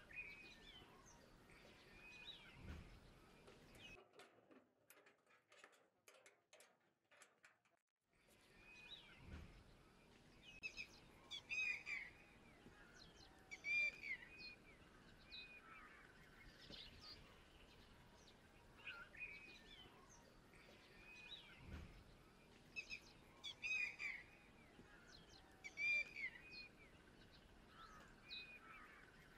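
Faint outdoor birdsong ambience: scattered short bird chirps and calls over a quiet background, broken by a few seconds of near silence about four seconds in.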